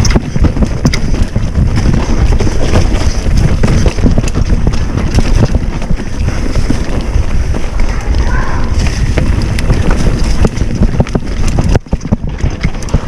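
Wind buffeting the microphone of a bicycle riding at about 20 km/h, a loud steady rumble with frequent short knocks and rattles. The rumble drops off sharply about a second before the end.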